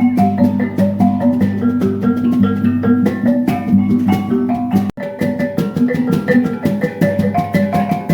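Percussion ensemble music: a quick melody on tuned percussion over a steady repeating low beat, with a sudden break about five seconds in.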